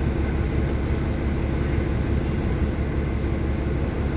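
Steady low rumble of a city bus in motion, heard from inside the cabin: engine and road noise.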